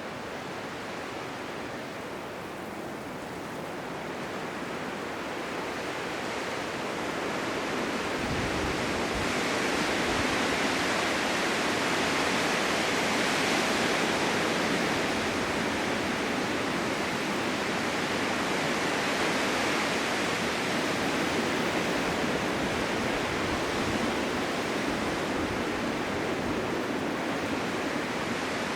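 Blizzard wind blowing as a steady rushing noise, swelling in a long gust over the first half and then holding strong.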